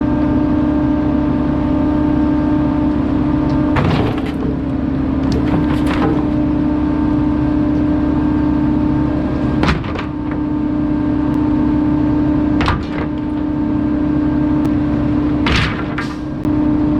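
Garbage truck's compactor running with a steady hydraulic hum over the engine, broken about five times by sharp cracks and snaps as bulky items are crushed.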